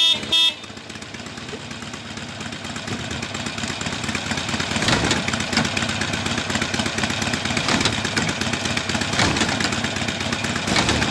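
Motorcycle engine running steadily, growing louder over the first few seconds and then holding, after a brief loud sound at the very start.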